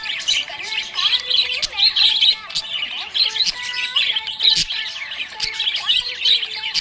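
Budgerigars chirping and warbling continuously, a dense stream of quick, overlapping high chirps and squawks.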